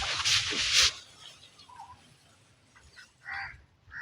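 Dry grass rustling loudly as it is handled and tossed down, stopping about a second in; a short call from domestic fowl follows near the end.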